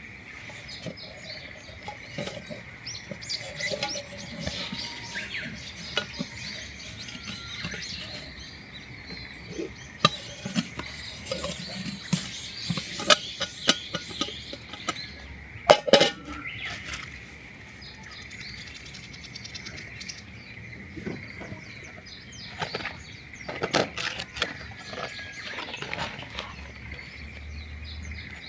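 Irregular sharp clicks and knocks, a few louder ones among them, over a steady high-pitched drone.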